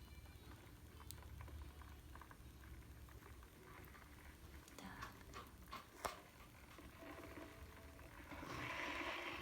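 Faint clicks and knocks of handling, then about 8.5 s in a steady rushing hiss of water being poured into the electric kettle.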